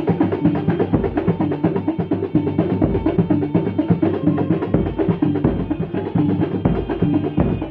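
A Kuntulan percussion ensemble playing a dense, fast drum rhythm. A deep drum stroke comes about every two seconds.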